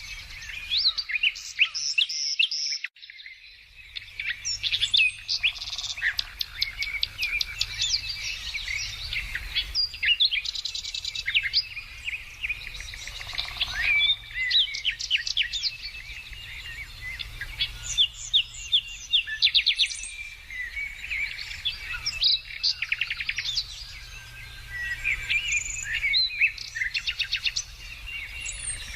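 Several songbirds singing and chirping at once in a dense, overlapping chorus of quick trills and high notes, with a brief drop-out about two to three seconds in.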